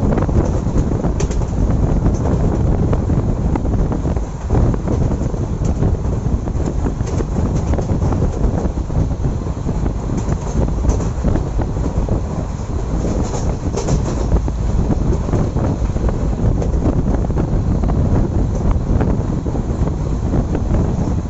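Passenger train running at speed, heard from on board: a steady rumble of the coach's wheels on the track mixed with rushing air, with a few faint high squeaks and ticks.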